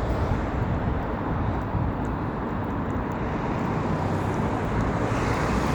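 Steady road traffic noise, a continuous rush of passing cars that swells slightly near the end.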